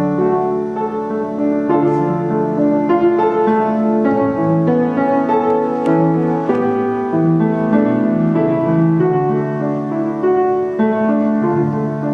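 Piano music playing steadily, one note or chord after another.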